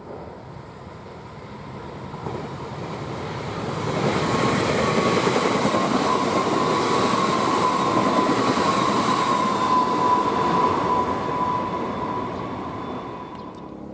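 Electric commuter train passing by: the noise of its wheels on the rails swells over a few seconds, holds, then fades away, with a high whine that slides a little lower in pitch as it goes past.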